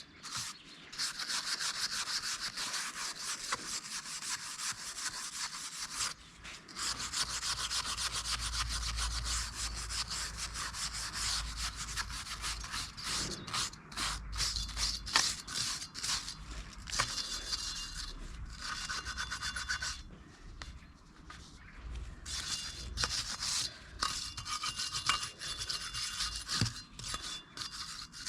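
Steel wire brush scrubbing a rusty steel wheel in fast back-and-forth strokes, with brief pauses, to clear rust before it is painted with anti-rust.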